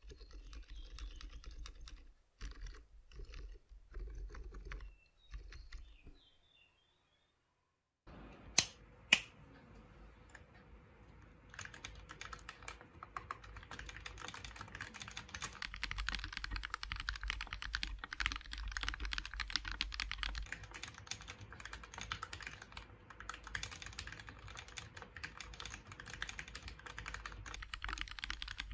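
Typing on a GK64 mechanical keyboard. For the first few seconds the keys are Gateron Silent Browns. After a short silent gap come two sharp clicks, then steady, fast typing on lubed Gateron Red linear switches.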